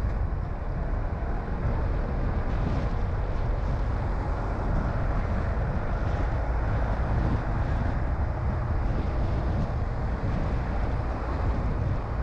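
A car driving on the road: a steady low rumble of engine and tyres with no sudden events.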